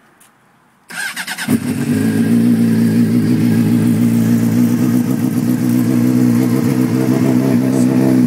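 A 2007 Honda CBR600's inline-four engine with a Two Brothers aftermarket exhaust, cold-started: the starter cranks briefly about a second in, the engine catches and settles into a steady idle.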